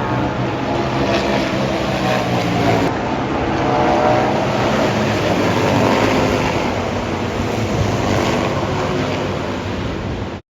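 Motorcycle engines running, with a steady rush of noise over them; the sound cuts off abruptly at the very end.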